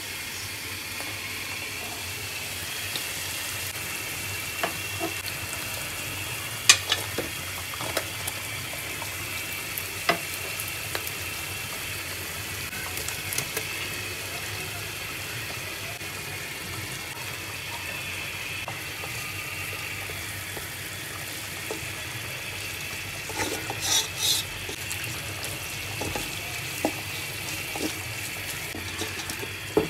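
Giant prawns frying in onion masala in a wok: a steady sizzle, with a few light clicks and taps scattered through and a small cluster of them a little before the end.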